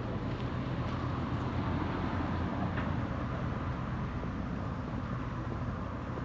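Steady low engine rumble, running evenly throughout.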